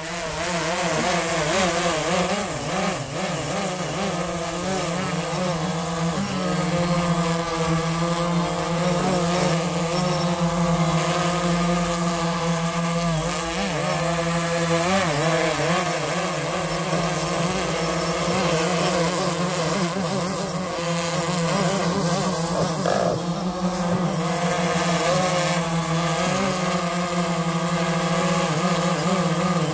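DJI Phantom 3 Advanced quadcopter's motors and propellers humming, a steady drone made of several pitches that waver up and down together as the rotor speeds shift.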